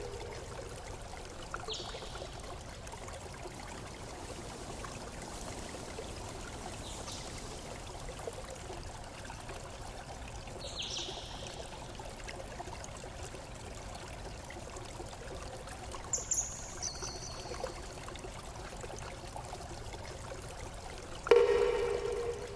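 Steady running water, like a stream. A few brief high chirps come through it, and near the end a single ringing, bell-like tone is struck and fades away.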